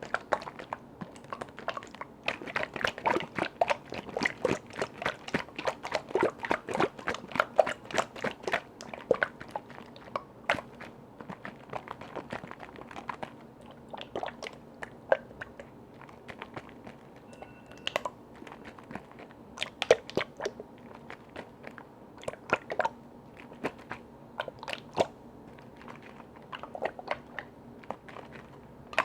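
Rapid tapping and clicking on container lids, a quick run of crisp taps for the first ten seconds or so, then sparser, scattered taps.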